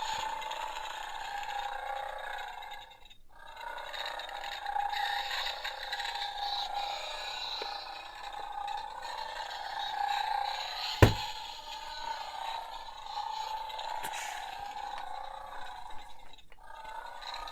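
Battery-operated toy Infinity Gauntlet playing its electronic sound effect through its tiny speaker, thin and steady with no bass. It breaks off briefly about three seconds in and again near the end, and a single sharp knock comes partway through.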